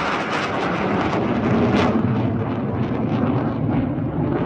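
F-16 fighter's single jet engine heard as it flies its display, a loud, steady jet noise with a crackling edge whose high hiss fades a little toward the end.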